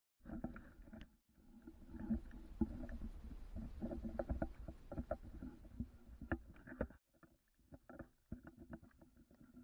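A canoe being worked through shallow, muddy water: irregular splashes, sloshing and knocks against the hull, broken by a few abrupt cuts.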